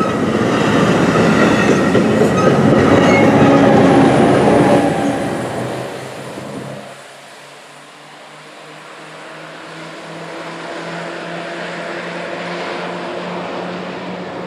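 Train rolling past on the rails, loud, with high steady squealing tones over the wheel noise, fading away between about five and seven seconds in. After that a low steady hum slowly grows louder.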